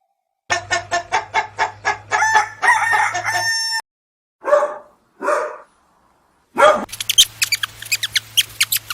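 Chickens clucking and a rooster crowing, in short separate bursts: a quick run of clucks ending in a drawn-out note, two single calls, then another rapid run of clucking.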